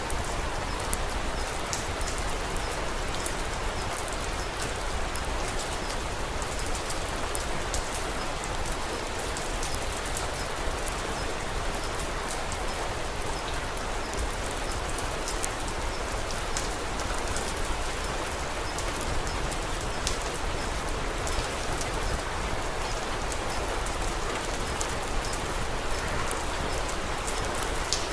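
Steady rain falling, with scattered light drop ticks through an even hiss.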